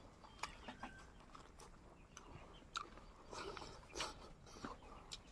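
A person chewing and eating a meal, with faint scattered clicks and smacks of the mouth, the loudest about four seconds in.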